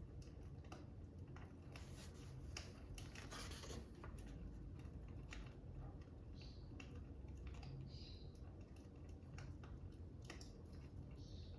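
Fire crackling: irregular sharp snaps and pops over a quiet low rumble, with a few brief hisses.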